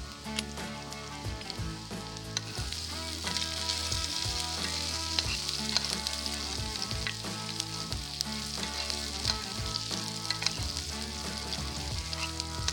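Sliced sulphur shelf mushrooms and onion sizzling in a skillet over a campfire. A metal spoon clicks and scrapes against the pan as they are stirred. The sizzle grows louder about two and a half seconds in.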